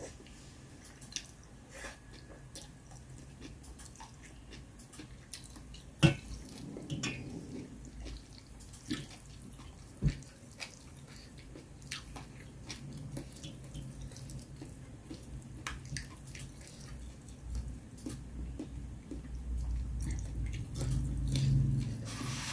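Quiet eating sounds: chewing and scattered light clicks, with a louder knock about six seconds in and another about ten seconds in, over a low hum.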